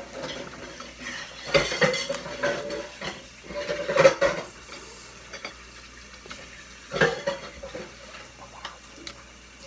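Dishes and cutlery clattering in three short spells, about two seconds in, around four seconds and about seven seconds in.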